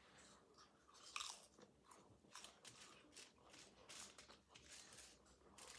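Quiet crisp crunching of a potato chip being bitten and chewed, with the loudest bite about a second in.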